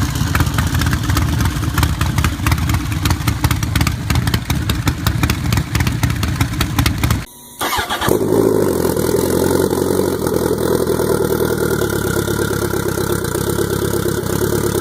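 Turbocharged custom motorcycle engines running at idle. The first runs with a rapid, lumpy firing. After a brief break about seven seconds in, a second engine idles steadily.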